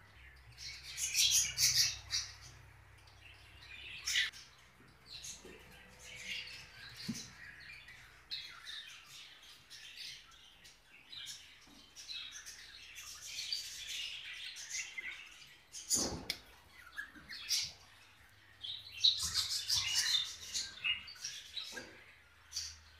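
A group of caged small parrots, sold as love birds, chattering with high-pitched chirps and squawks. The calls come in dense flurries, loudest about a second in, around the middle and near the end, with a single sharp knock about two-thirds of the way through.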